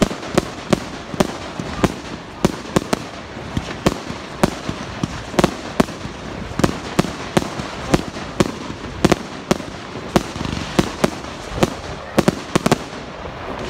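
Fireworks display: a rapid string of sharp bangs, about two to three a second, over a steady crackle of bursting shells. The bangs stop shortly before the end, leaving the crackle to fade.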